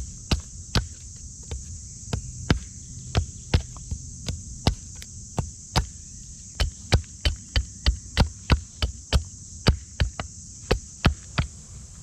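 A long run of sharp, short knocks at an uneven pace, about two or three a second and some in quick pairs, over a steady high hiss.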